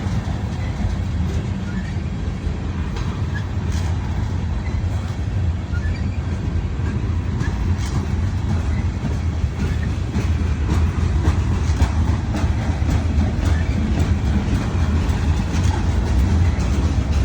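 Train rolling past: a steady low rumble with scattered faint clacks from the wheels on the rails, growing a little louder in the second half.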